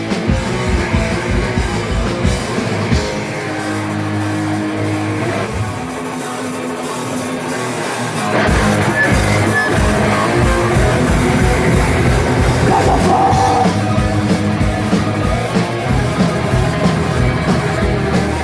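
Live rock band playing loud: electric guitars, bass and drum kit. The low end and drums drop back for a few seconds, then the full band comes back in louder about eight seconds in.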